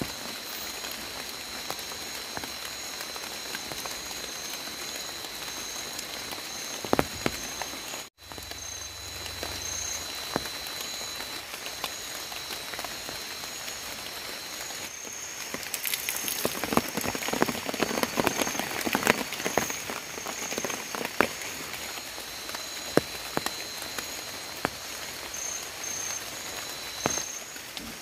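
Light rain falling on the tarp and forest leaves, with single drops ticking and a busier spell of drips about two-thirds of the way through. Behind it runs a steady high-pitched calling of night animals.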